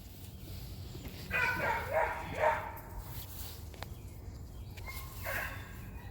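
A dog barking: three quick barks about a second and a half in, then one more about five seconds in.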